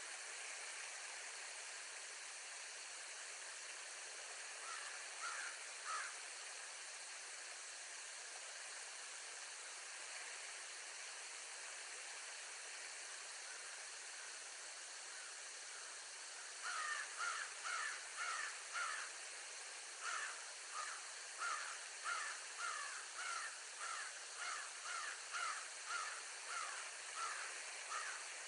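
A bird calling in a long series of short, harsh notes, about one or two a second, over a steady hiss. A brief run of calls comes about five seconds in, and the long series starts past the halfway point.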